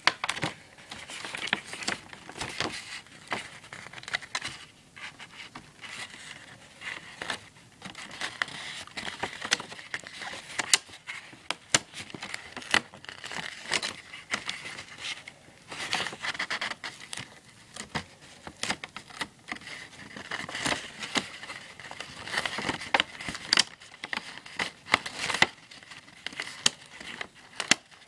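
Paper being handled and worked on a table: irregular crinkling and rustling with many small clicks and taps.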